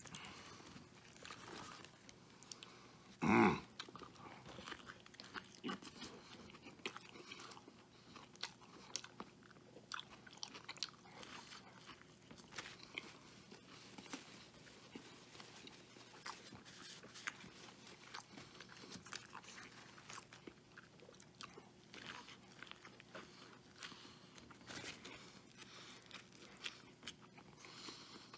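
Close-miked chewing of a Wendy's Triple Baconator burger: faint wet mouth clicks and smacks come one after another throughout. About three seconds in there is one short, louder voiced sound from the eater's throat.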